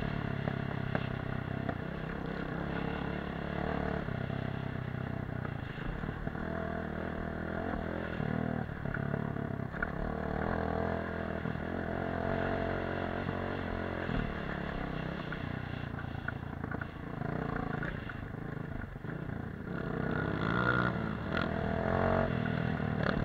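Off-road dirt bike engine running under way, its pitch rising and falling with the throttle.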